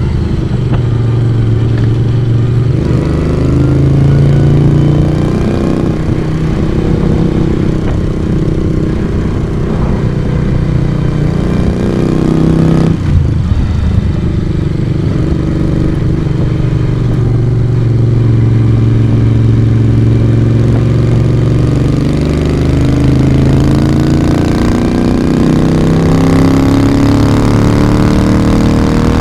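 Moto Guzzi V35 café racer's V-twin engine and exhaust running under way, with a brief break in the engine note about halfway through. The pitch climbs steadily near the end as the bike accelerates.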